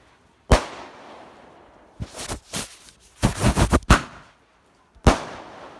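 Consumer white glitter firework shots bursting: a single sharp bang about half a second in, a run of quick overlapping cracks from about two to four seconds in, and another single bang near the end, each dying away in a short echo.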